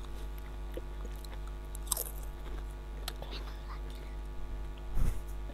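A crisp snack being bitten and chewed close to the microphone: scattered crunches and mouth clicks, with a sharper crunch about two seconds in and a louder thump near the end.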